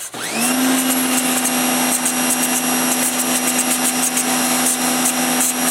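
A 1650 psi pressure washer starting up: its motor spins up over the first moment, then runs steadily with a hum over the hiss of the water jet spraying.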